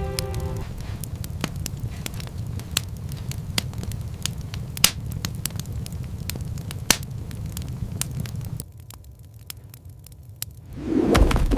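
Wood fire crackling, with many sharp irregular pops over a low rumble; it drops away about three-quarters through, and a louder dull thump comes near the end.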